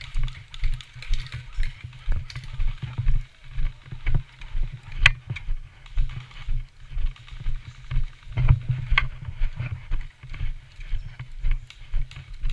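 Footsteps of a person walking at a steady pace, about two steps a second, heard through a body-worn camera with the rustle of clothing and gear. Two sharp cracks stand out, about five and nine seconds in.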